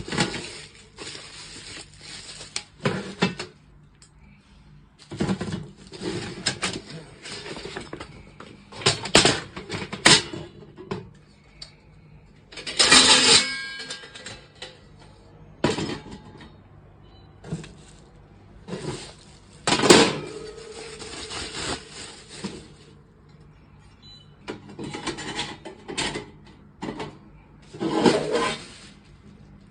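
Irregular handling noises: scattered knocks and clatter with a few louder bursts, the loudest about thirteen and twenty seconds in.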